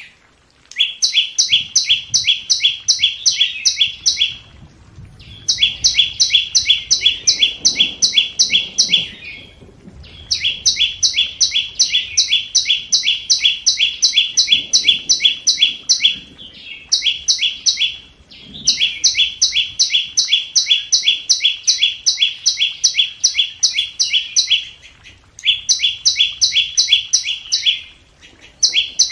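A flowerpecker calling in rapid runs of sharp, evenly repeated high notes, about four or five a second. The runs last a few seconds each and are broken by short pauses, about seven times over.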